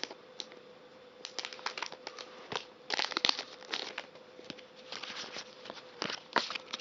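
Pokémon card booster pack being torn open and its foil wrapper crinkled: irregular crackling and rustling in several spells, busiest around three to four seconds in and again near the end. A faint steady hum sits underneath.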